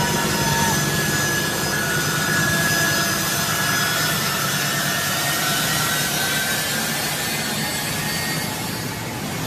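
Jet aircraft engines running: a steady loud roar with a thin high whine that drifts slowly down in pitch.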